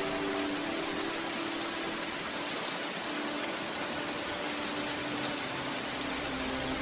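Steady rain falling on a surface, an even hiss without a break. Soft held music tones fade out in the first second and return near the end.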